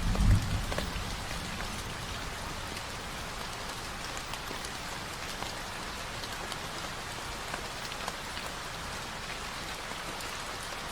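Steady rain falling, with scattered ticks of individual drops; the tail of a low thunder rumble fades out in the first half-second.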